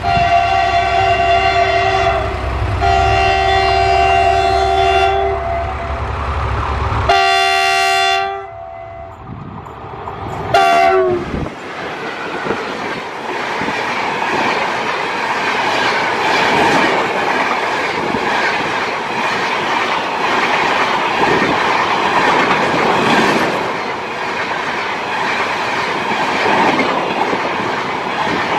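Train locomotive horn sounding several long blasts over a heavy low rumble, the last one sliding down in pitch as it cuts off about eleven seconds in. The train then runs past with a steady clickety-clack of wheels over rail joints.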